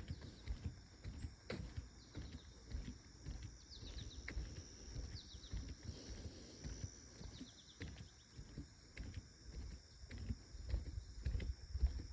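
Footsteps walking along a trail, low thuds about two a second, over a steady high-pitched insect drone, with a few short falling chirps about four and seven seconds in.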